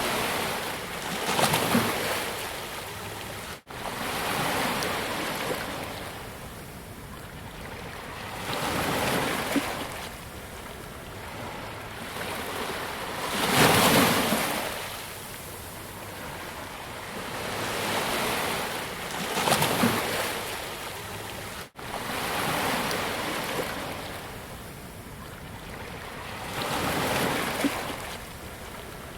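Ocean waves breaking on a beach, each one swelling and washing in about every five seconds over a steady surf hiss. The sound cuts out for an instant twice.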